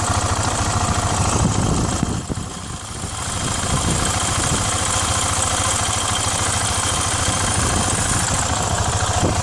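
KTM 690 SM's single-cylinder engine idling with a steady, even pulse. The sound dips briefly about two seconds in and then comes back up.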